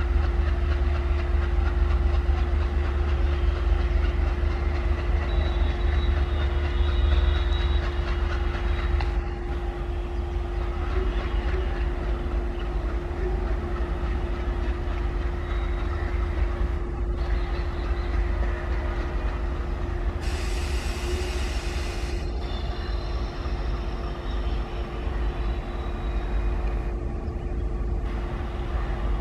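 Diesel locomotive hauling a passenger express train out of a station at slow speed: the engine runs with a steady low rumble and a constant hum over the sound of the train rolling. About two-thirds of the way in, a hiss lasts for about two seconds.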